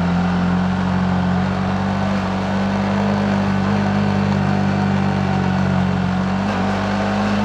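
Yamaha MT-15's single-cylinder engine running under way at fairly steady revs, its note shifting briefly about six and a half seconds in.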